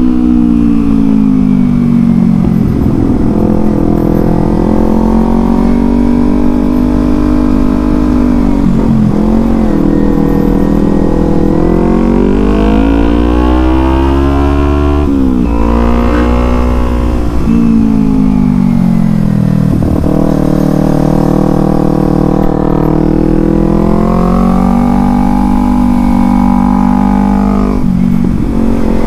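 Kawasaki Z250's parallel-twin engine running under the rider, its revs rising and falling again and again as the throttle is worked, with a few brief breaks in the pitch, over a low rumble of wind and road.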